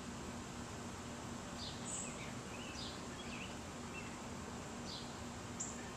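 Outdoor ambience with songbirds chirping: short, falling calls scattered every second or so, with a couple of brief high notes. A faint, steady hum sits underneath.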